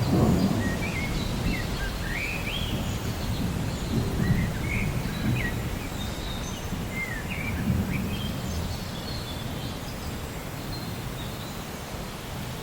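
Rainforest ambience: many birds chirping in short calls that glide up and down, over a steady low rumble of rain and distant thunder that swells briefly a few times.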